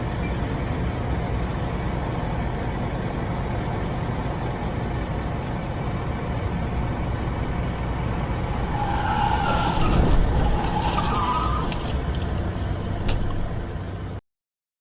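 Steady road and engine noise of a car as picked up by a dashcam. About nine seconds in, brief high squealing tones and a low thud sound. The sound cuts off suddenly shortly after fourteen seconds.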